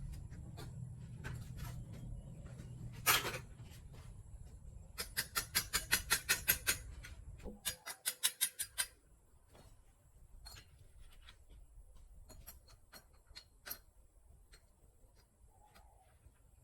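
Hand tools clicking and knocking on motorbike parts: a sharp knock about 3 seconds in, then two quick runs of rapid clicks around the middle, and scattered single ticks after that. A low steady hum runs underneath and stops about halfway through.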